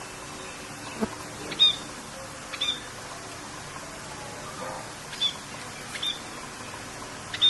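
Short, sharp bird chirps, about five of them spaced a second or so apart, over a steady hiss of falling rain.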